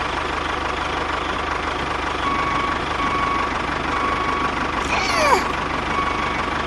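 An engine running steadily with a fast, even chugging. A faint tone comes and goes in short spells, and a falling whistle-like glide sounds about five seconds in.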